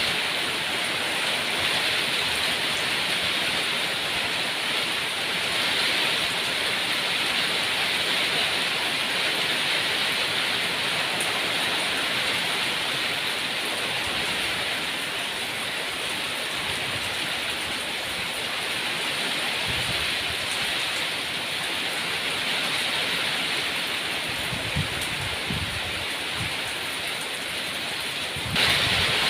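Steady heavy rain falling, an even rushing hiss of water with no single drops standing out; it gets a little louder near the end.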